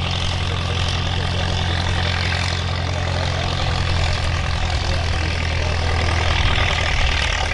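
Tractor engine running steadily under load with a deep, even hum, a little louder near the end.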